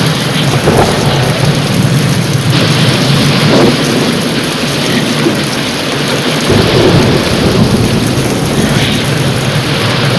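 Heavy, steady rain pouring down with rolling thunder; a deeper thunder rumble swells in about two-thirds of the way through.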